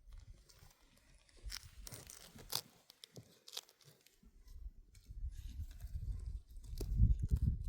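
A few sharp snaps and tearing sounds, then a low, irregular buffeting rumble that grows louder over the last few seconds.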